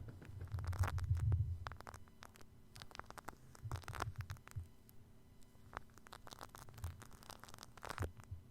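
Shaving cream being worked over a binaural microphone, giving scattered wet crackles and clicks. A dull low rumble comes about a second in, with a few softer low thumps later.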